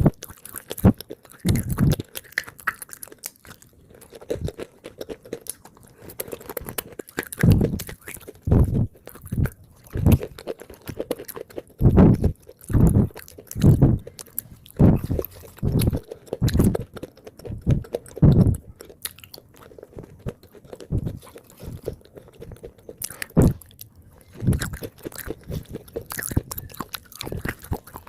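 Close-up chewing and crunching of water-soaked edible clay (khawa clay): a run of soft, crunchy bites and chews at roughly one a second, with a quieter pause a little past the middle.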